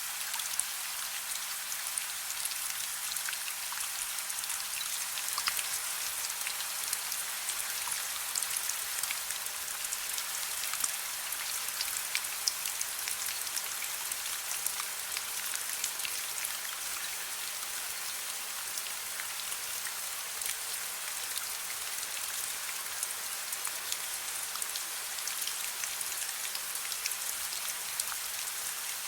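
Gentle rain falling steadily: an even hiss dotted with many separate drop ticks on a surface.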